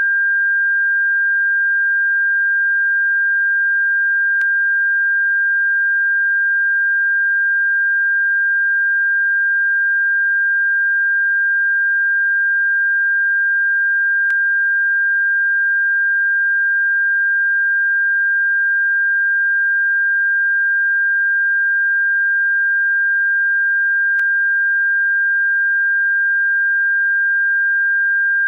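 A steady, unchanging pure sine tone of about 1.6 kHz, played as a bird-repellent frequency. Three faint clicks break through it about ten seconds apart.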